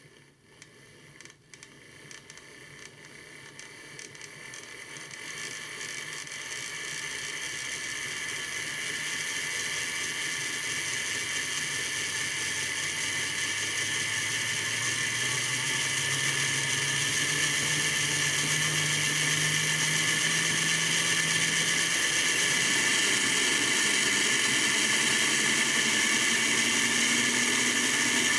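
Model Power HO-scale electric model train running on its track, its small motor and wheels making a steady whir. The whir grows louder over about the first ten seconds as the train speeds up, then holds steady with its hum creeping slowly higher in pitch.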